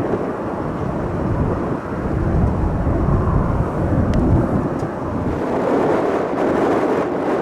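Jet airliner engine noise, a loud, steady deep rumble.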